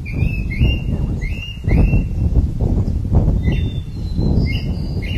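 Birds chirping, a string of short high calls repeated every half second or so, over a loud, uneven low rumble.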